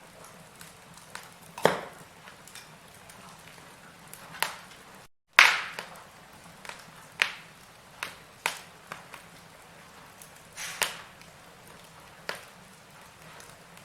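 Firewood burning in a fireplace, crackling with irregular sharp pops over a faint hiss, a few pops louder than the rest. The sound cuts out for a moment about five seconds in.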